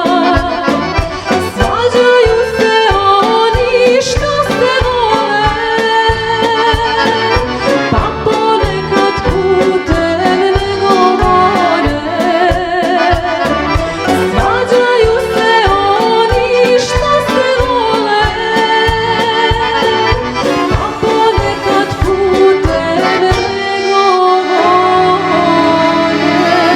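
Serbian folk music led by accordion, its ornamented melody over a steady rhythmic bass beat; near the end the beat stops and a chord is held.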